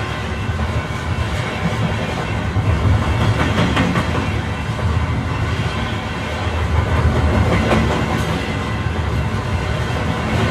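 Passenger train running along the track, heard from inside the carriage: a steady rumble with a few clacks of the wheels over rail joints.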